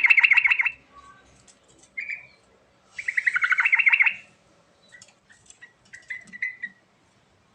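Yellow-vented bulbul (trucuk) singing: a fast bubbling phrase, a short single note about two seconds in, then another long bubbling phrase about three seconds in, followed by softer scattered chirps.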